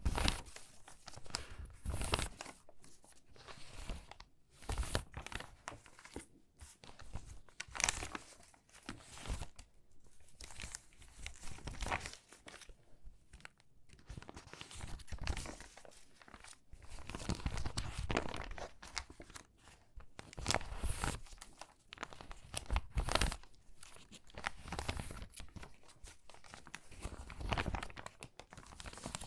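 Stiff, water-damaged magazine pages crinkling and rustling as they are handled and sorted, in irregular bursts of crackling with short pauses between.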